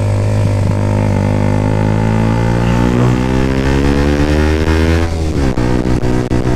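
A 125 cc motorcycle engine under way, its pitch climbing slowly as it pulls through a gear. About five seconds in, the pitch drops suddenly and then picks up again, as at a gear change or a throttle lift.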